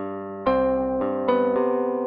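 Electric piano music: a slow run of sustained chords, a new chord struck about every half second and fading between strikes.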